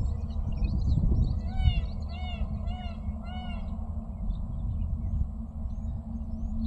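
Small birds chirping over a low rumble, while one animal gives four short, arched, high-pitched calls in a row, about half a second apart, in the middle.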